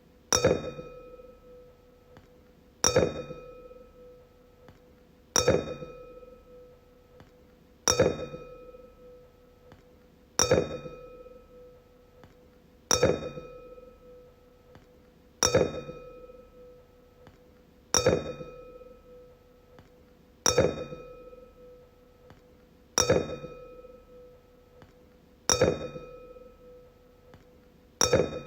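Wine glass struck about every two and a half seconds, twelve times, each tap ringing a clear tone that fades away over a second or two.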